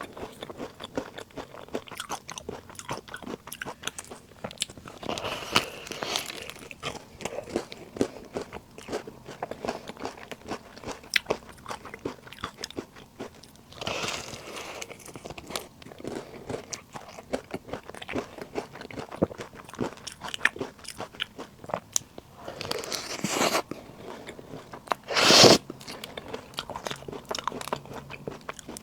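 Close-miked eating of soft, chewy puff snacks: bites and chewing with many small wet mouth clicks, and a few louder noisy bites, the loudest about 25 seconds in.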